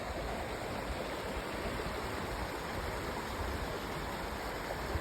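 A stream running with a steady rushing noise.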